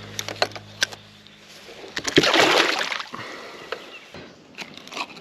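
Water sloshing and splashing against a kayak, loudest in a burst about two seconds in, with scattered knocks and clicks on the hull before and after.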